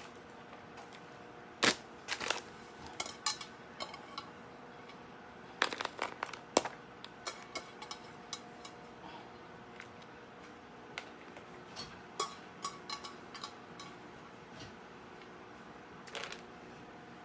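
Kitchen handling noises: irregular clicks, taps and knocks of utensils and dishes being handled while a stuffed turkey roast is assembled, over a faint steady hum.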